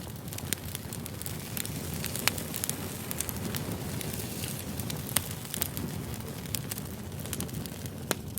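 Campfire burning: a steady low rumble of flames with scattered sharp crackles and pops, two louder pops about two and five seconds in.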